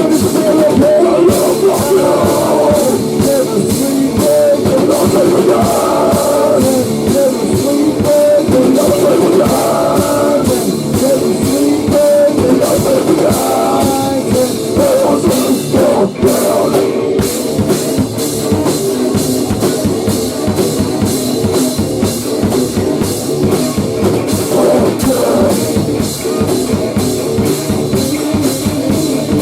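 Rock band playing a loud grunge/hardcore song: a drum kit keeps a steady beat under guitar, with a wavering melodic line through the first half.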